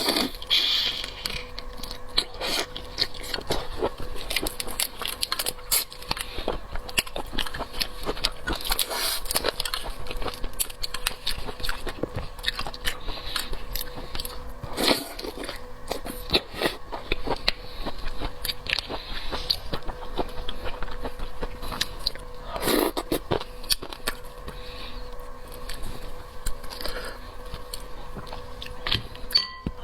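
Close-miked eating of seafood: biting and chewing with a dense run of small wet clicks, crackles and scrapes, and louder smacks about 15 and 23 seconds in. A faint steady hum lies underneath.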